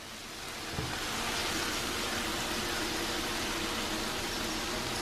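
Chicken and onions sizzling steadily in a hot frying pan as white vinegar is poured in.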